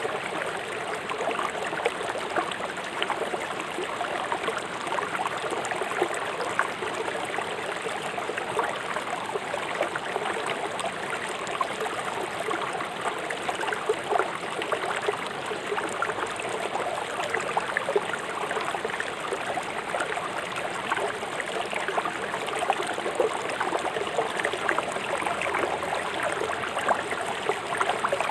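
A fast-flowing river rushing and splashing over stones, a steady babbling of water with many small splashes.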